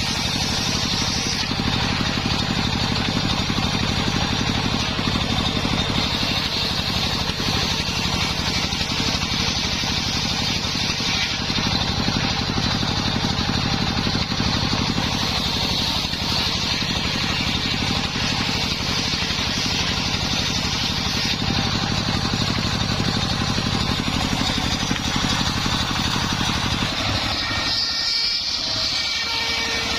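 Engine-driven home-built circular sawmill running steadily. Its low engine note drops away for a moment about two seconds before the end, then returns.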